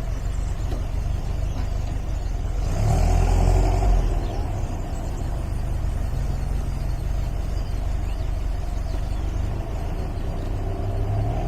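MG MGA roadster's four-cylinder engine running steadily under way, its revs rising briefly about three seconds in before settling back.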